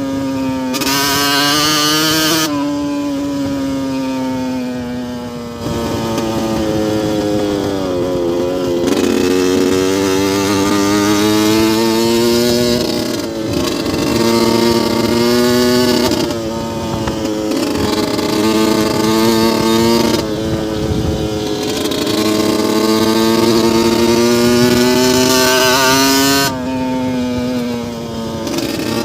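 2002 Yamaha YZ125's single-cylinder two-stroke engine running under throttle, its pitch climbing steadily and then dropping away several times, with a harsher, brighter note at the top of each climb.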